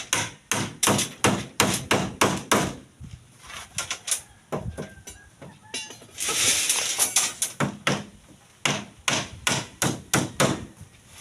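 Hammer blows in quick runs of about three a second, with a pause in the middle broken by about a second of scraping.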